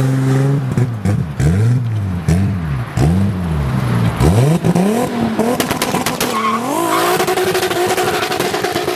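Toyota Supra MK4's 2JZ-GTE twin-turbo straight-six being revved in a quick series of throttle blips, about five rises and falls. The revs then climb and are held steady and high for the last couple of seconds.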